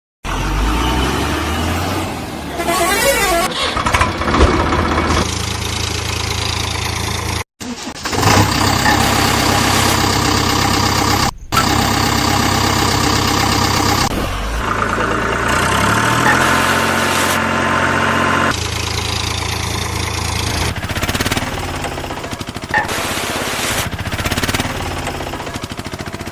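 Cartoon vehicle sound effects: engines running and revving alongside horn honks, cut together in several short sections with brief drops to silence between them.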